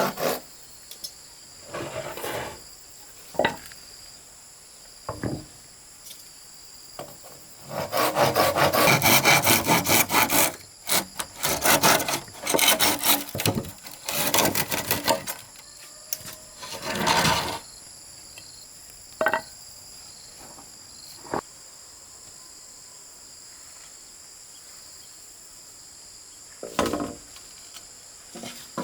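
Hand saw cutting in several bouts of quick back-and-forth strokes, with scattered single knocks between them, over a steady high chirring of insects.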